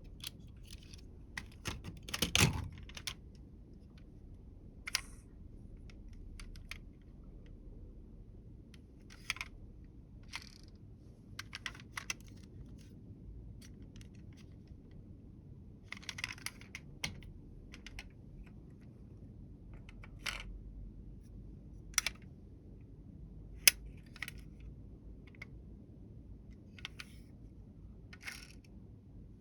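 Small hard clicks and clacks of toy model vehicles being handled and set down, irregularly spaced, with a louder knock about two and a half seconds in.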